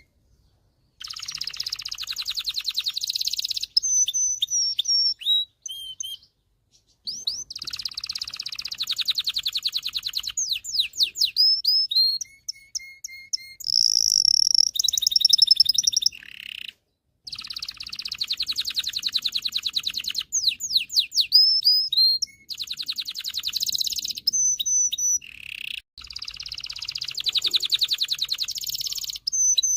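Male canary singing: long fast trills of rapidly repeated notes alternate with sweeping whistled notes and short rolls, the song breaking off in brief pauses several times.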